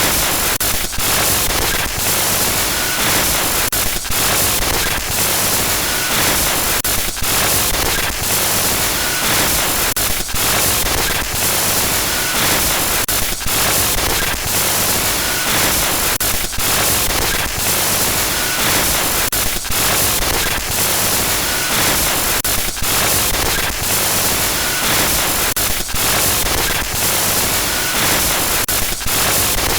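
Loud, steady static hiss broken by brief stuttering glitches and dropouts about once a second, a looped glitch-noise horror sound effect.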